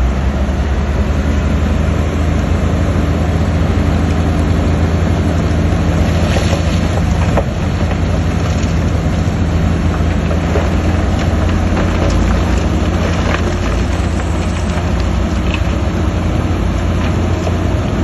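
Heavy diesel engine of a construction machine running steadily under load, with a few short knocks.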